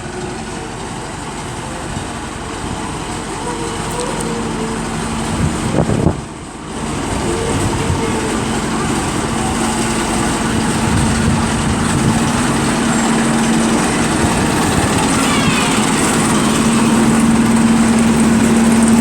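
Rail vehicle running, with a steady rolling rumble and a droning tone that grows louder toward the end. There is a brief loud bump about six seconds in.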